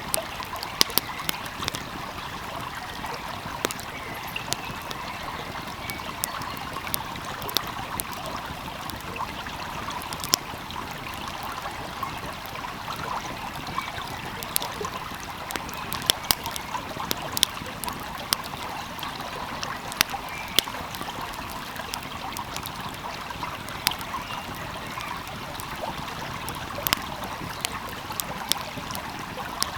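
Wood fire crackling, with frequent sharp irregular pops, over the steady rush of a flowing stream.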